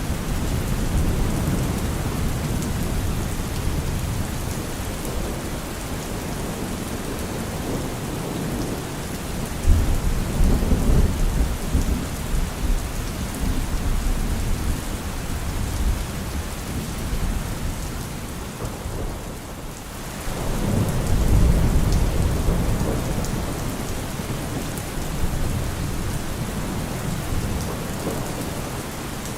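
Steady rain falling in a thunderstorm, with deep rolls of thunder rumbling in about a third of the way through and again about two-thirds through.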